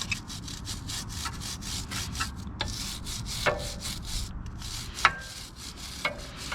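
A stiff brush scrubbing a motorcycle chain in quick back-and-forth strokes, a few per second, to clean off the grime before lubing. A few sharp clicks come in between, the loudest about five seconds in.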